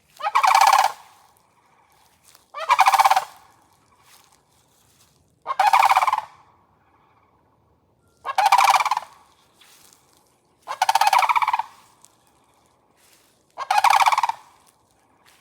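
Large birds giving loud rattling calls, about a second each, six times at an even pace of one every few seconds: the flock is calling noisily.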